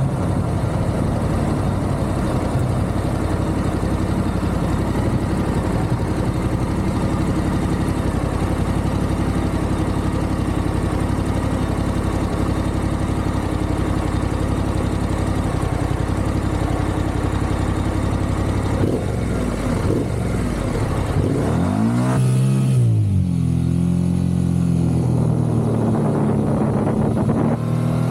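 Motorcycle engine running at cruising speed, with rushing wind noise. In the last third the engine note rises and falls several times, as with throttle and gear changes, before settling and rising again near the end.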